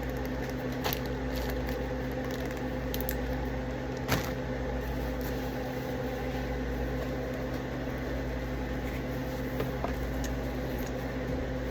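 Microwave oven running with a steady hum, a light click about four seconds in.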